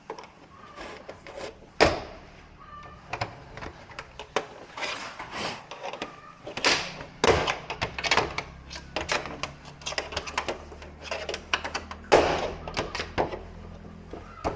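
Repeated clicks, knocks and rattles of hard parts and tools being handled during work on a flat-screen TV, with two sharper knocks about 2 s and 12 s in. A steady low hum runs under the second half.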